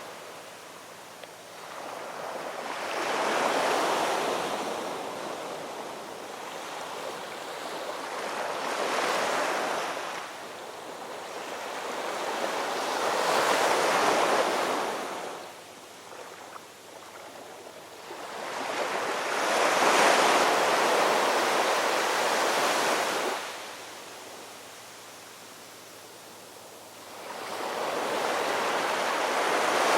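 Ocean waves breaking and washing up on shore, the surf swelling and falling away roughly every five to six seconds.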